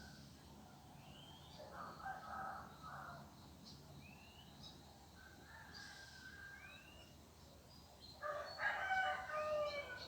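Roosters crowing: a fainter, more distant crow about two seconds in and a louder crow lasting about two seconds near the end. Small birds call with short rising chirps throughout.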